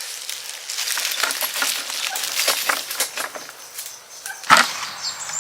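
Wheelbarrow loaded with dry cement mix being pulled over rough ground, with rapid rattling, crunching clicks from the wheel, the barrow and footsteps. A single loud knock comes about four and a half seconds in.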